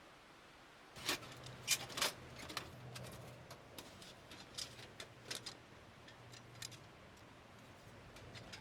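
Irregular sharp clicks and ticks, starting about a second in and loudest in the first second or so, then sparser, over a faint steady low hum.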